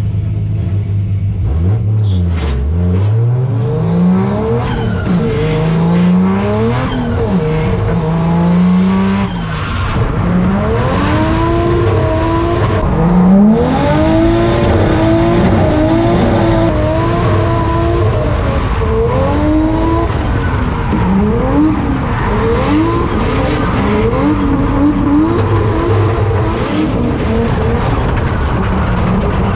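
Turbocharged 1JZ straight-six in a Nissan 240SX, heard from inside the caged cabin. It holds a steady note at first, then from about two seconds in it revs up and down again and again, the pitch climbing and dropping with each throttle stab and gear change through a drift run.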